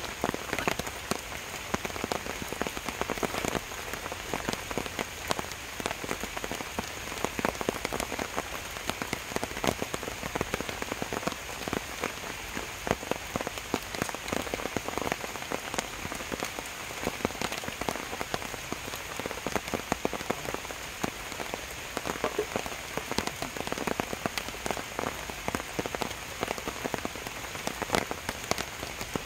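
Steady rain falling, a constant hiss with a dense patter of individual drops hitting close by.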